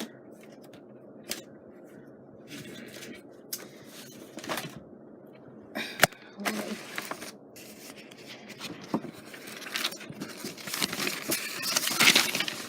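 Rummaging through scrapbook leaf embellishments and their packets: paper rustling and scraping with scattered light ticks, a sharp click about six seconds in, and denser crinkling rustles near the end.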